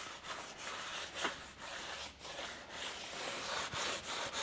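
A rag wiping down a front brake disc to clear off grease, heard as a run of uneven rubbing strokes.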